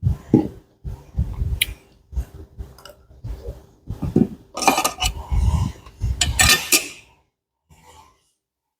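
Close-up eating sounds: chewing and mouth smacking over a plate of spicy pounded salad, with a few clinks of utensils against the dish. The sounds are irregular and loudest a little past the middle, then die away about a second before the end.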